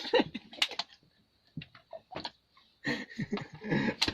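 Scattered light clicks and taps of utensils being handled while ghee is served onto the food, with a short lull in the middle.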